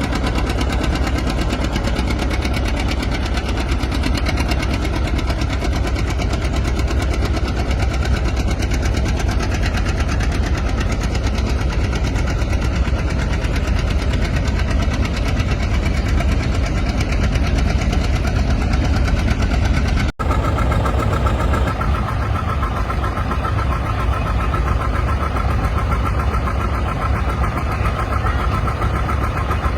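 Antique farm tractor engine running steadily. About two-thirds through, the sound cuts out for a moment; afterwards a steady higher whine sits over the engine.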